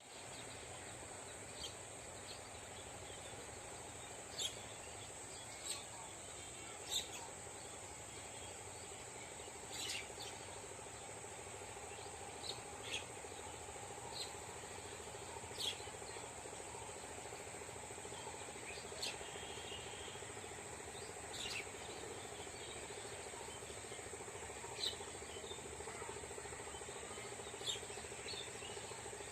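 Rural morning ambience: a steady high-pitched insect trill runs throughout, with about a dozen short bird chirps scattered at irregular intervals of one to three seconds.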